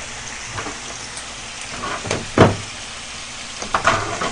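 Pork belly and kimchi sizzling on a hot griddle: a steady frying hiss, with a few brief louder sounds, the loudest about two and a half seconds in.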